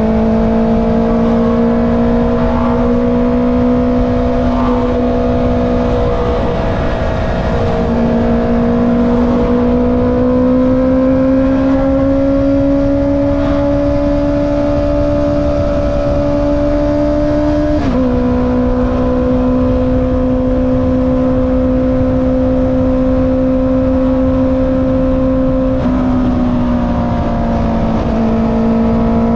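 Honda CB650R inline-four engine through an Akrapovic exhaust, running under load while riding, its pitch steady or climbing slowly. The note breaks and resumes about six to eight seconds in, drops suddenly about eighteen seconds in at a gear change, and shifts again near the end.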